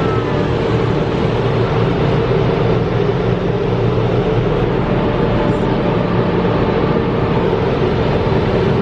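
Automatic car wash machinery running, heard from inside the car: a loud, steady rushing noise with a low hum underneath.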